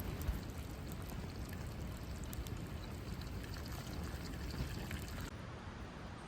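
Water running or being poured, a steady splashing hiss with faint fine crackles, which changes abruptly about five seconds in.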